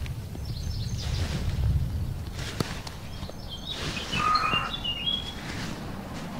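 Bird chirping in short high notes, with a cluster of them about three to five seconds in, over a steady low rumble.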